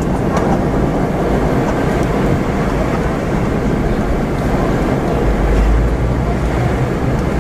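Steady cabin noise of a Boeing 717-200 in flight during descent: a rush of airflow over the fuselage and a deep drone from its tail-mounted Rolls-Royce BR715 turbofans. The low rumble swells about five seconds in.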